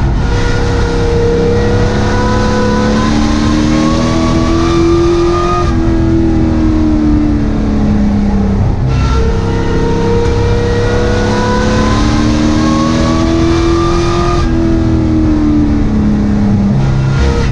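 A racing sport truck's engine heard from inside the cab, running hard under full throttle with its pitch climbing for several seconds, then falling as the driver lifts off, then climbing again. This happens twice, one cycle per lap of a short oval.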